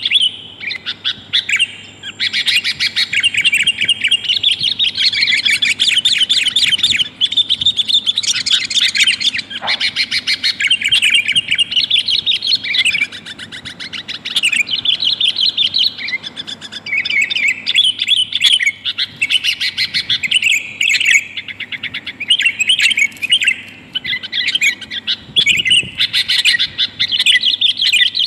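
Sooty-headed bulbul (kutilang) calling: fast, chattering runs of bright chirps, nearly continuous with a few short pauses. Billed as a female's call to a male, used to lure wild males down.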